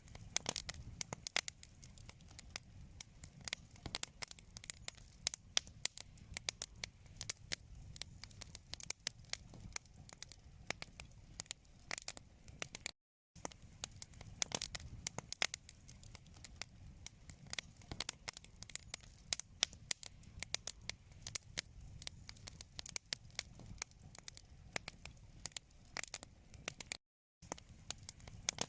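Wood fire crackling, with frequent sharp, irregular pops over a low, steady rumble of the flames. The sound cuts out completely for a split second twice.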